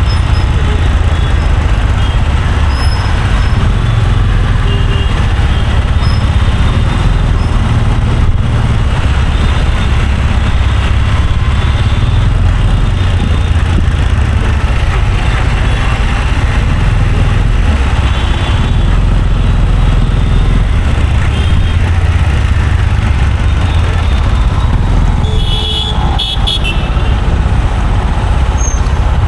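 Busy road traffic: a steady low rumble of engines and tyres, with vehicle horns sounding now and then, one louder near the end.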